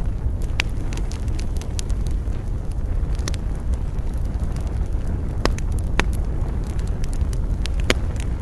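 Wood campfire crackling, with sharp pops at irregular moments over a steady low rumble.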